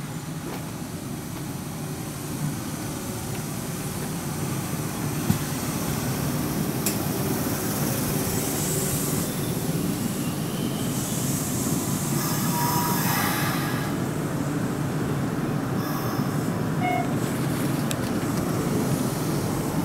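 Hanshin 8000-series electric train pulling into the station: the rumble of its wheels on the rails grows louder as it runs along the platform, with bursts of high-pitched squeal around the middle and a single click about five seconds in.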